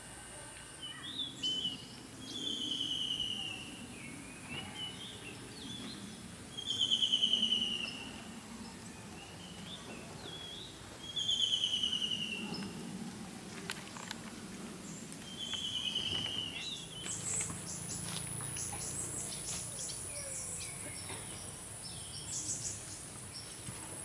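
Outdoor ambience: a bird repeats a short trilled call four times, about every four seconds, with other birds chirping around it and a burst of quick chirps in the last third. A faint high steady whine, like an insect, joins about two-thirds in, over a low background rumble.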